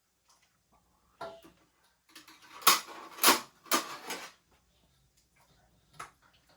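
Several light clicks and knocks, one about a second in, a bunch of them between about two and four seconds in, and a single one near the end.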